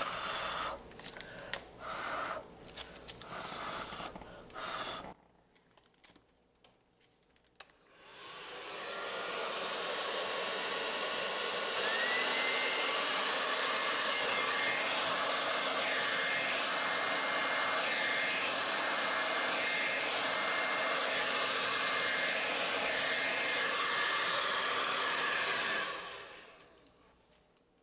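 A hair dryer is switched on about eight seconds in, blowing poured acrylic paint outward into a bloom. It runs steadily and gets louder from about twelve seconds, with a thin whine. It is switched off near the end. Before it there are a few light clicks of handling.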